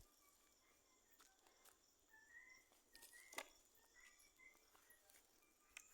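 Near silence: faint rural night ambience with a few faint short chirps and a couple of soft clicks.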